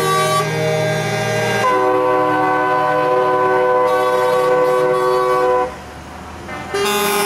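Multi-tone truck air horns sounding long, held chords, overlapping one after another. The sound drops away briefly near six seconds in before another horn starts.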